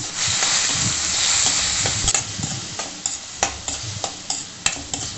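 Cut strawberries sizzling in hot ghee in a stainless steel pan. The sizzle is strongest for about the first two seconds, then dies down, while a stirring utensil clicks and scrapes against the pan several times.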